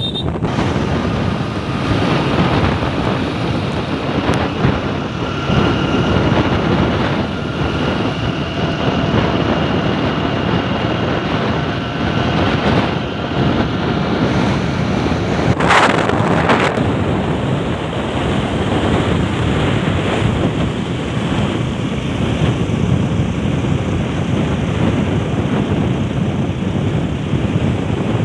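Wind blowing across the microphone, a loud, steady rushing noise. A faint steady whine sounds through the first half, and a brief louder hiss comes about sixteen seconds in.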